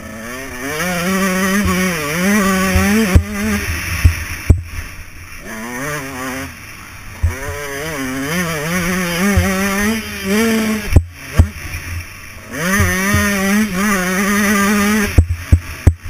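Dirt bike engine revving hard on a motocross track, its pitch climbing and falling again and again as the throttle opens and closes, twice easing right off for a moment. Frequent sharp knocks cut through the engine noise.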